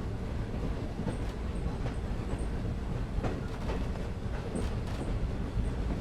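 Excursion train rolling along the track: a steady low rumble with scattered clicks from the wheels and rails.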